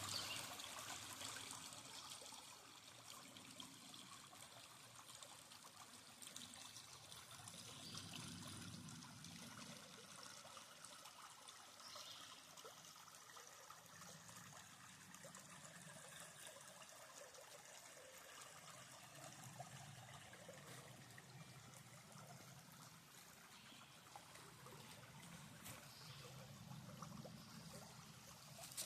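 Faint, steady trickling of a small stream.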